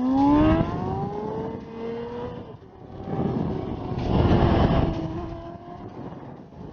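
Vehicle engine revving up under hard acceleration, its pitch rising at the start and levelling off, with loud bursts of rushing wind noise about three to five seconds in.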